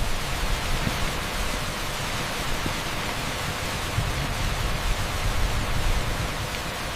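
Torrential rain pouring onto an asphalt street: a steady, dense hiss.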